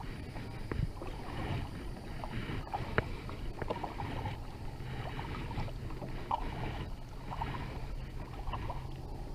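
Water splashing and sloshing around a kayak, with scattered small knocks. A steady low hum comes in about six seconds in.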